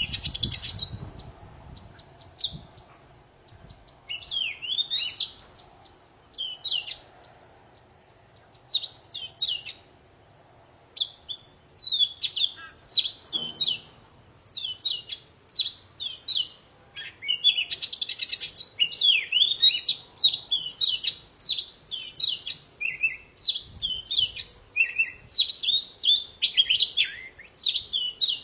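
Oriental magpie-robin of the black-bellied 'poci' form singing hard: phrases of sharp, rapidly changing whistles, sparse at first and nearly continuous in the second half.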